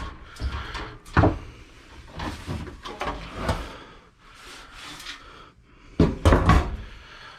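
Parts of a desktop computer being handled during teardown: irregular knocks, scrapes and rattles, with a sharp knock about a second in and a louder clatter about six seconds in.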